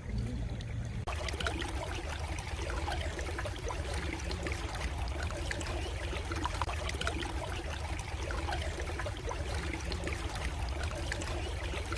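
Stream water babbling and trickling, full of small splashes, over a steady low rumble. The water sound grows louder about a second in and cuts off suddenly at the end.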